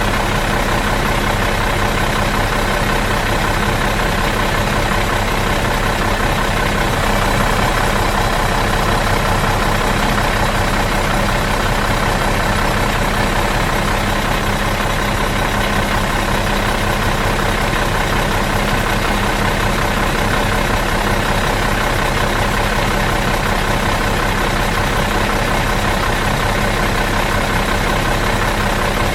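Bus engine idling out of gear, a steady, even hum and rumble that does not change.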